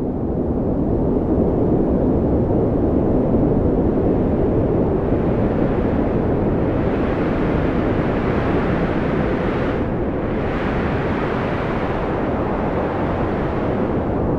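Strong wind blowing in a steady, deep rush that brightens and strengthens from about halfway through.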